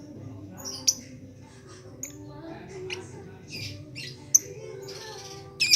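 Lovebird giving short, sharp, shrill chirps and squawks at irregular intervals, a run of about seven calls with a loud one near the end, the kind of call played as a lure to set other lovebirds singing.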